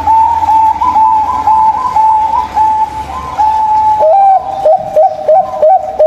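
Zebra dove (perkutut) cooing: a fast run of short, stepped, whistle-like notes. After about four seconds they sit a little lower in pitch and come more clipped. A low hum underneath fades out around the same point.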